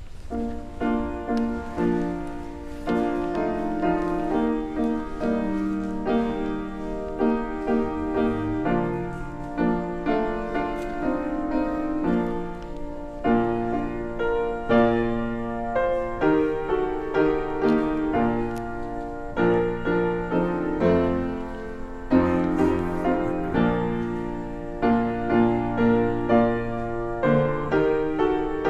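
Piano playing slow, hymn-like music in full chords, each chord struck and then fading.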